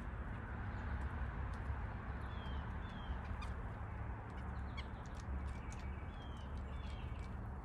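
Outdoor birds calling over a steady background rumble and hiss: two pairs of short, high, falling chirps, one pair a couple of seconds in and another near the end, with a few faint ticks.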